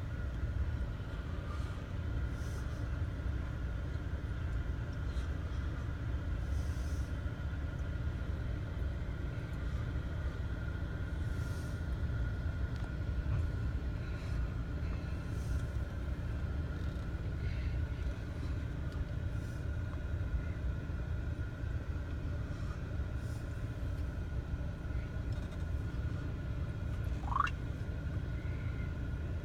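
Steady low rumble heard from inside a car cabin, with a faint steady high tone, and a short rising squeak about 27 seconds in.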